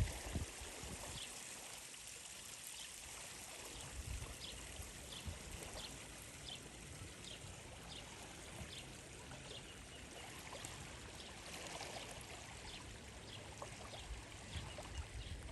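Faint, steady running water, like a stream or trickle, with a light high tick repeating roughly once or twice a second.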